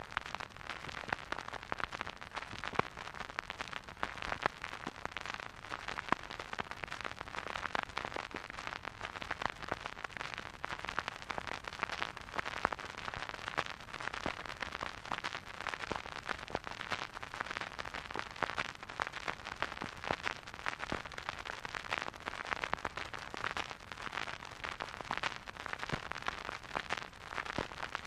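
Vinyl record surface noise from a turntable stylus riding the groove: a steady soft hiss with dense, irregular crackles and pops, and no music.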